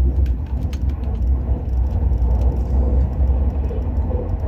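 Steady low rumble of an Al Boraq high-speed train at speed, heard inside the passenger car, with light rattles and clicks over it.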